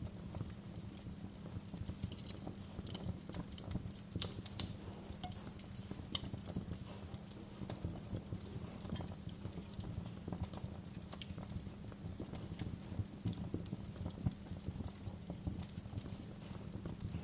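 Wood fire crackling in a fireplace: irregular sharp pops and snaps over a steady low rumble of the burning fire, with one louder pop about four and a half seconds in.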